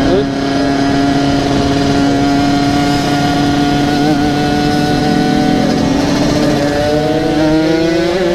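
Yamaha RX King two-stroke single-cylinder engine running through a local aftermarket exhaust, holding a steady high note with a slight waver, then rising in pitch near the end as the revs climb.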